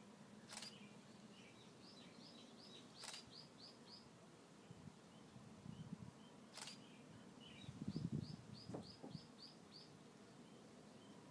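Birds singing faintly outdoors: two runs of quick, high chirps at about four or five notes a second, each lasting a second or two. There are a few sharp clicks and a brief low rumble about two-thirds of the way through.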